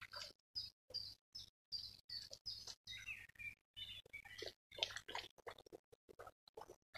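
Birds chirping and singing in short high calls, heard in choppy fragments as the audio keeps cutting in and out, with a faint low hum under each fragment.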